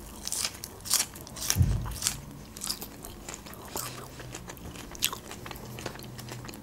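A person chewing and biting food close to the microphone: a run of wet mouth clicks and small crunches, with one dull low thump about one and a half seconds in.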